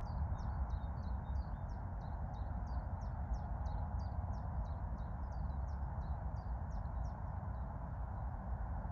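A small songbird calling a long run of short, high, falling notes, about three a second, that fade out near the end, over a steady low rumble.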